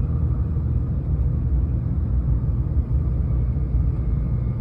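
Tokaido Shinkansen train running, a steady low rumble heard from inside the passenger car.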